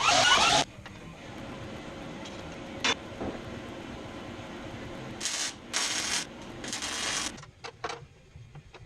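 Guitar music stops about half a second in. Then come a single sharp click and, a few seconds later, three short hissing scrapes, with a few faint ticks near the end.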